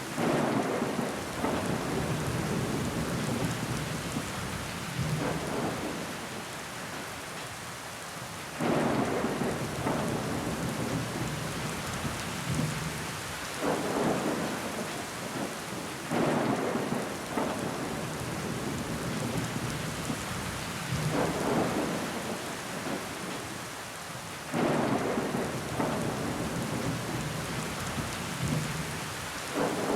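Steady rain pattering on window glass, with louder swells that rise suddenly every few seconds and die away.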